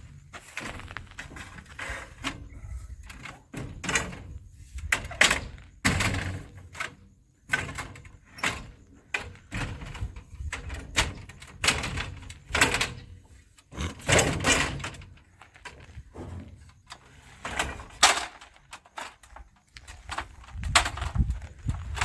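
Irregular knocks, thuds and short scrapes from someone handling pipes and moving about during plumbing work, coming every second or two.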